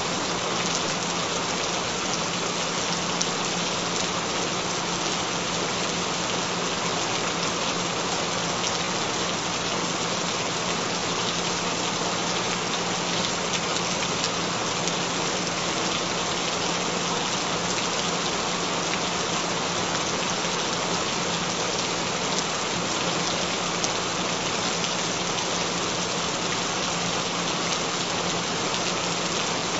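Steady rain falling on a surface, an even hiss of drops that does not change. A low steady tone runs underneath.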